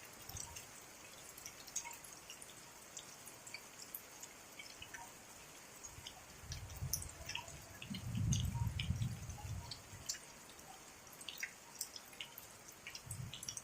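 Rain falling in scattered, separate drips, with low rumbles of distant thunder a little past halfway and again near the end.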